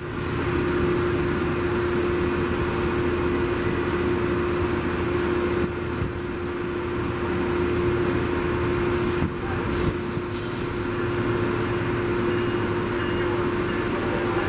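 Metrolink commuter train standing at the platform, its diesel power idling: a steady rumble with a constant droning hum over it.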